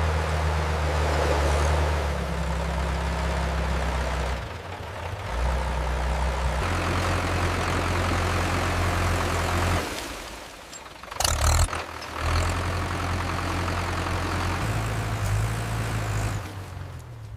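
Tractor engine running steadily, its pitch changing abruptly several times, with a dip and a short sharp burst about eleven seconds in.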